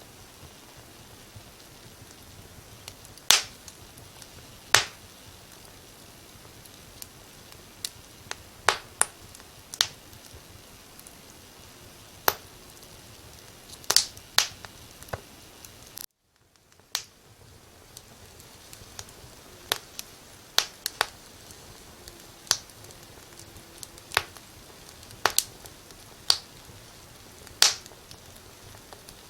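Wood fire crackling, with irregular sharp pops every second or two over a steady soft hiss. About halfway through the sound cuts out briefly, then fades back in.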